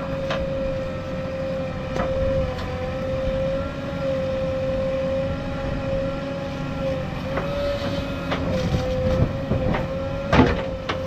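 Backhoe loader running steadily with a held, slightly wavering whine over its engine rumble, with several sharp knocks or clanks scattered through.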